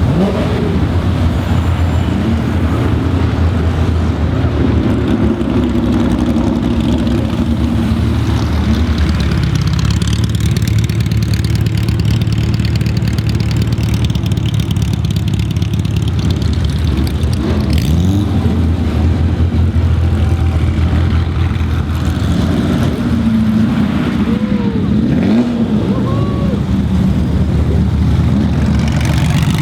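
Several Porsche car engines idling and running at low speed, with a few brief rises and falls in pitch from short revs.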